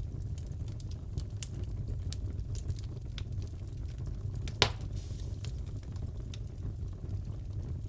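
Wood fire crackling in a fireplace: a steady low rumble of the burning with scattered small snaps, and one loud pop a little past halfway.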